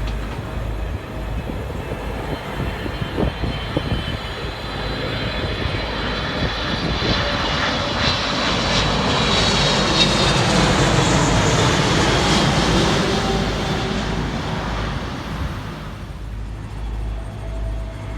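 Jet airliner on landing approach passing by, its engine noise swelling to a peak about ten seconds in with a high whine, then fading away.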